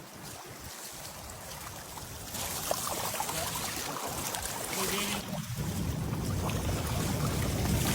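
Water rushing through a channel dug out of a lake, a steady noisy flow that gets louder about two seconds in and keeps building.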